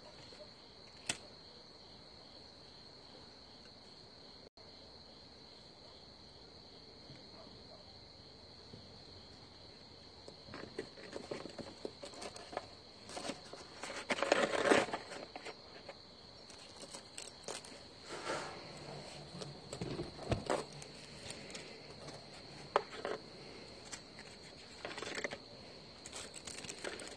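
Insects trilling in one steady high note, with scattered rustling and crackling of kindling and twigs being handled on a small wood fire that is just being lit. The handling starts about a third of the way in and is loudest around the middle.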